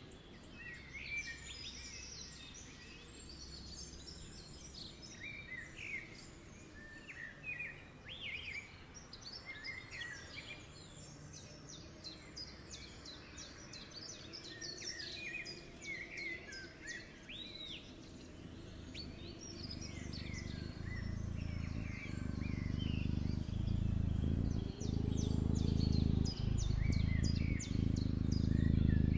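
Birds chirping and singing, many short calls throughout. A low, steady rumble builds up in the second half and becomes the loudest sound near the end.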